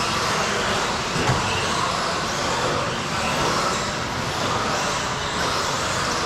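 Several electric RC stadium trucks racing: motors whining and tyres hissing on the track in a steady wash of sound, with one brief knock a little over a second in.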